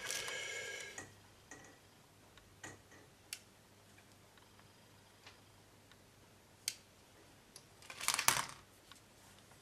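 Plastic model-kit parts handled on a bench while a part is snipped off its plastic sprue with cutters: a brief rustle at the start, a few sharp separate clicks, and a louder clatter of plastic about eight seconds in.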